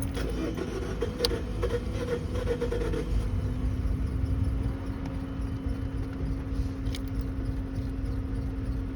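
Steady low rumble of a car, with a constant hum over it and a sharp click right at the start.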